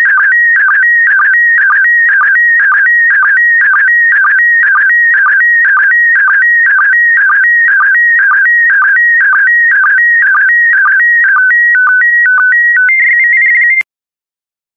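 PD120 slow-scan television (SSTV) image signal: loud, high electronic warbling tones repeating about twice a second, one pattern per scan line. Near the end it switches to a few stepped tones and a steady higher tone, then cuts off suddenly, marking the end of the image transmission.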